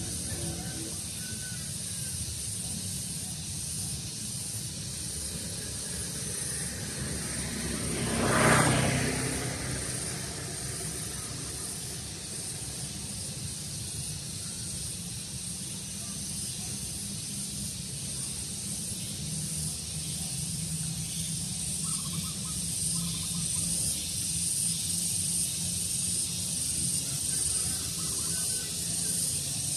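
Daytime outdoor ambience of steady breeze with a constant high hiss and a few faint bird chirps. A louder whoosh swells and fades about eight seconds in.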